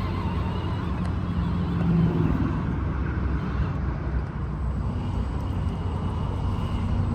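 Huangbo HB R1001 Beluga RC crawler driving, its electric motor and gearbox running under a steady low rumble, with a faint high whine later on.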